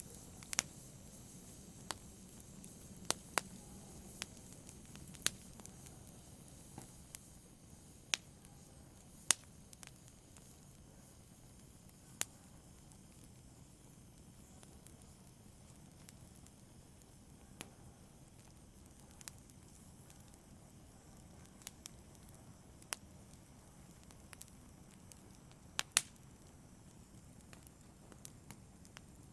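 Fire burning in a fireplace: a steady low hiss with irregular sharp crackles and pops, one loud pop about a third of the way in and another near the end.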